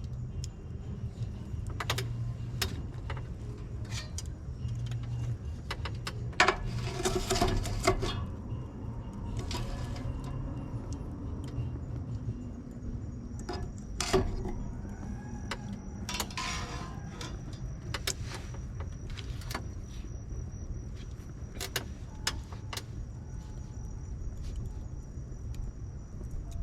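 Wood bonfire burning, with sharp crackles and pops scattered irregularly throughout over a steady low rumble. Two denser spells of hissing crackle come about six seconds in and again about sixteen seconds in, and the loudest single pops land about six and fourteen seconds in.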